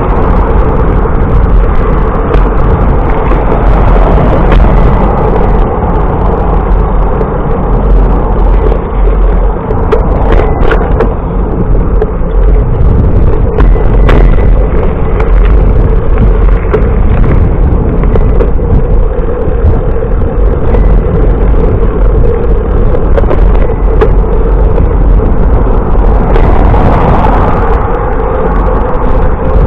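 Loud, steady wind noise rumbling on the microphone while riding a bicycle, with a faint steady hum under it and a few brief clicks midway.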